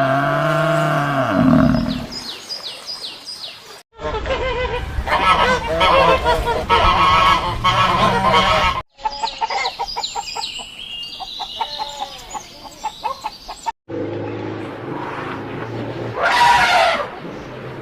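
Animal calls from several short clips strung together, each stopping at an abrupt cut, about four in all.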